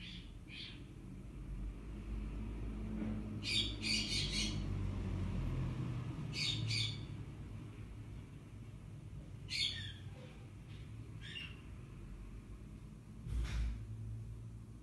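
Birds squawking in short calls, some in quick runs of two to four, over a steady low rumble of street traffic.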